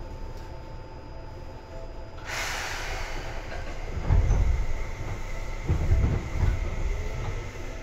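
Seibu 2000 series electric train car getting under way: a sudden hiss of air about two seconds in, then the low rumble of the car grows louder with heavy thumps from below. A faint motor whine begins to rise near the end.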